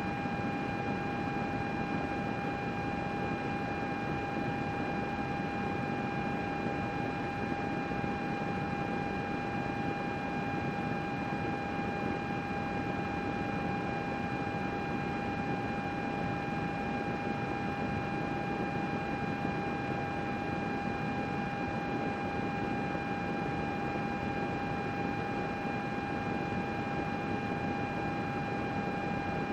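Computer running with its cooling fan whirring: a steady rushing noise with a steady whine on top.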